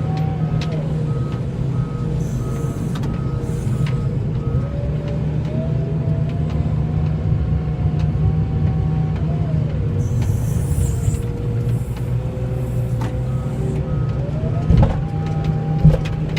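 Plow truck engine running, its pitch rising and falling as it drives, with a backup alarm beeping about twice a second during the first few seconds and again near the end. Two short knocks come near the end.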